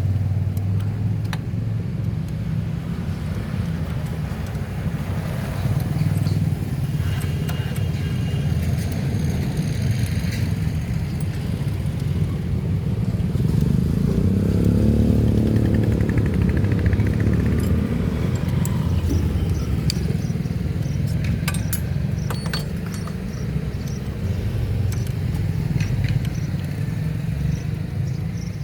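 Steady low vehicle engine rumble that swells and fades about halfway through, with scattered light metallic clicks and clinks.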